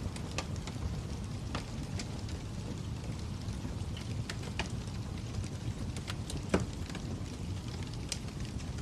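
Wood fire crackling: a steady low rumble with scattered sharp pops and snaps, the loudest about six and a half seconds in.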